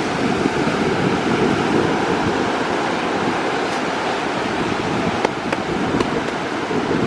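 Ocean surf washing onto the shore, a steady rush of noise.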